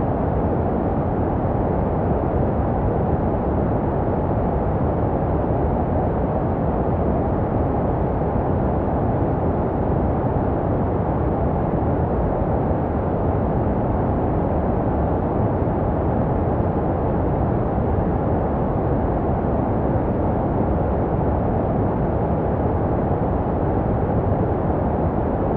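Steady white noise for soothing a baby, muffled and deep, with little hiss on top, produced to sound like what a baby hears inside the womb. It holds even, with no change.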